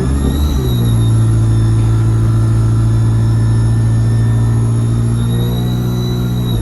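ADL Enviro 200 single-deck bus heard from on board: the diesel engine runs steadily with a high turbo whistle over it. About half a second in, the engine note briefly shifts, like a gear change. Near the end the engine pulls harder and the whistle rises again.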